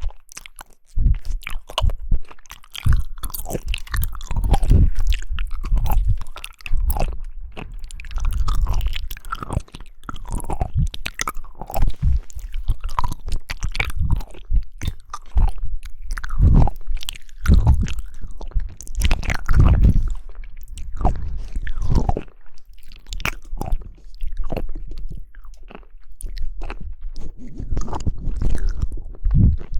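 Loud, close chewing and biting of jelly: a steady run of wet, squishy mouth sounds with frequent sharp clicks and crunches, going on irregularly throughout.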